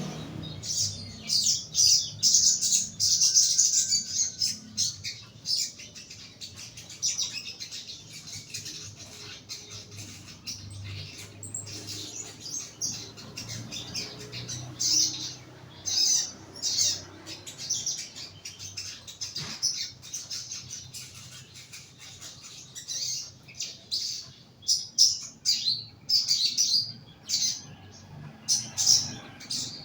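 Young sogon bird in a cage giving repeated short, high chirps in irregular clusters, with quieter stretches between them.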